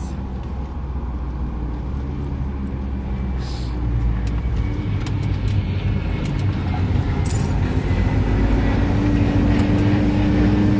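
Steady low rumble of a car in motion, growing slowly louder, with an engine tone rising gently in pitch near the end as it picks up speed.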